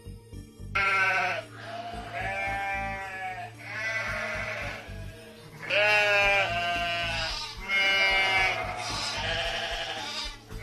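About six drawn-out, bleat-like animal calls, each lasting about a second, over steady background music.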